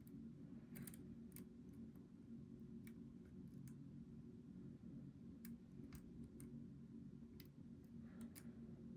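Faint, irregular metallic clicks of a lock pick working the pin stacks of a Goal V18 dimple lock under tension, about a dozen in all, over a steady low hum.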